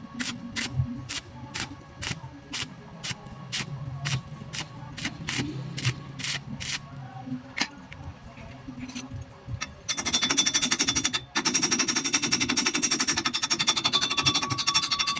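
A run of sharp separate clicks, two or three a second, then about ten seconds in an electric welding arc starts up with a steady, dense crackle, breaking off for a moment once before running on.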